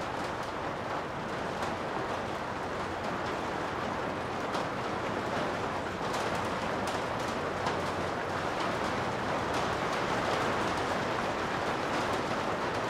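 Steady rain heard from inside a garage, an even hiss with scattered sharp taps of single drops.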